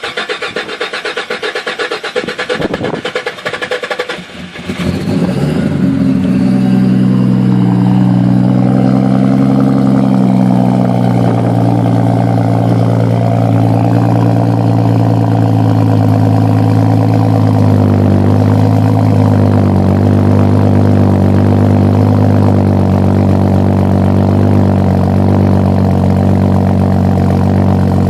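A 128DVS engine cold-started on E85 ethanol fuel: the starter cranks it with a rapid choppy pulsing for about four and a half seconds before it catches. It then settles into a steady, even idle.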